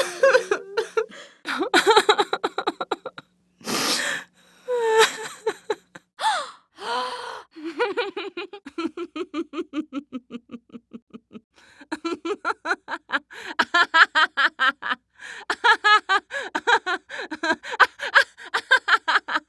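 A string of separate human vocal sound effects: short gasps and exclamations in the first seven seconds, then three bouts of rapid pulsed laughter.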